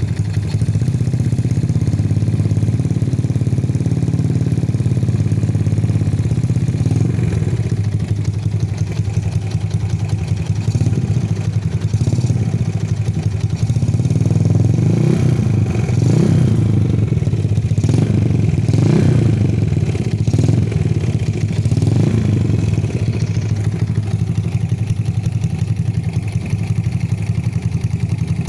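Small Yamaha motorcycle engine idling through an F2racing hexagon short stainless-steel aftermarket exhaust, with several quick throttle blips in the middle stretch before settling back to a steady idle.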